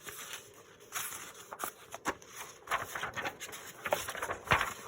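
Book pages and paper being handled: irregular rustles with a few light taps, one a little louder near the end.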